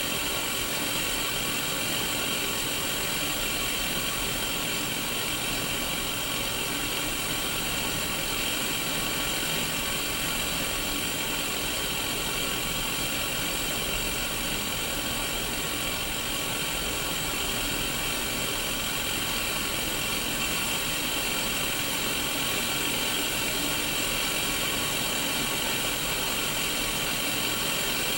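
Steady static hiss (white noise) from a Sony Mega Watchman black-and-white mini CRT television, unchanging throughout.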